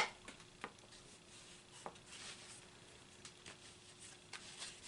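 A sharp click right at the start, then scattered faint clicks and taps of clip leads and tools being handled while wiring up a tube car radio on the bench, over a faint steady hum.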